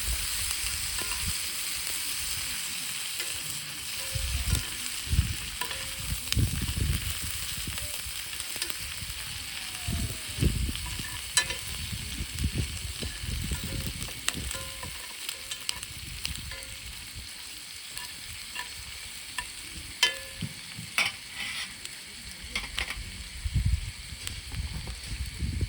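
Food sizzling in a hot pan, a steady hiss that slowly eases off, with scattered sharp crackles and soft low thuds.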